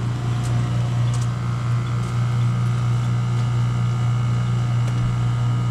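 Newly installed heat pump system running in heat mode: a steady low hum with a faint, even whine above it.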